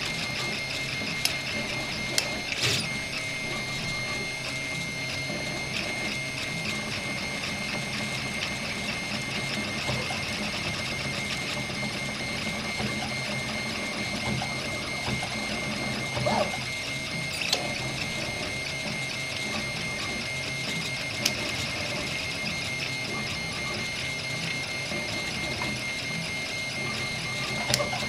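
RepRap 3D printer running a print, its stepper motors giving a steady whine with a held high tone. A few short, sharp clicks break through now and then.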